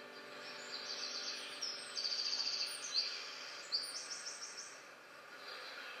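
A songbird singing a run of short, high trilled phrases, each a quick string of notes, about five in a row before it stops about four seconds in, over faint outdoor hiss.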